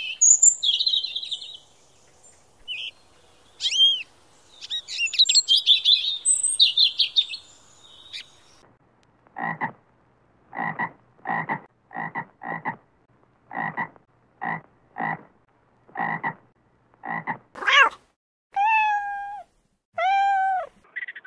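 Small songbird chirping and trilling in high, quick notes for the first eight seconds or so. Then a tree frog croaking in a steady series of about a dozen short croaks. Near the end, a cat meowing three times, the last two meows long.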